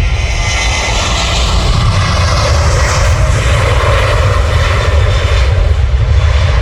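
Ryanair Boeing 737 jet airliner departing at full thrust: a loud jet roar over a deep rumble, swelling to its loudest about three to five seconds in and then easing a little as it goes by.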